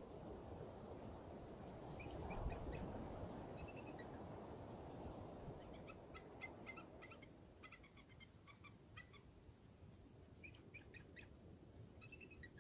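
Birds calling faintly in several quick runs of short chirping notes, over a low wind rumble that eases off about halfway through.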